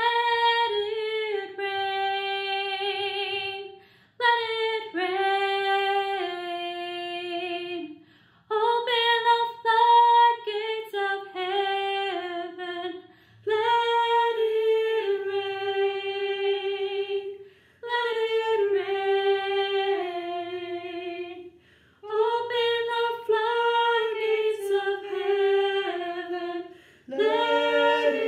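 A woman singing unaccompanied, one melodic line in phrases of about four seconds with brief pauses for breath between them. Near the end, more parts join in and the sound fills out.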